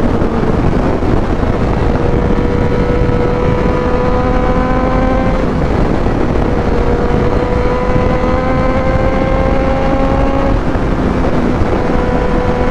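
Triumph Street Triple 765 RS inline three-cylinder engine on the move through a full Spark exhaust with Konix Evo end can and de-cat. The engine note climbs slowly, dropping back briefly about five and a half and ten and a half seconds in, over steady wind rush.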